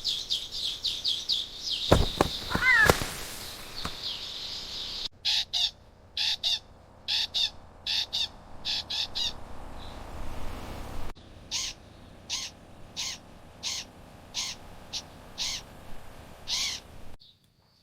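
Birds calling in rapid series of short, high chirps, in several spliced segments that change abruptly. A couple of loud, sharp knocks come about two to three seconds in.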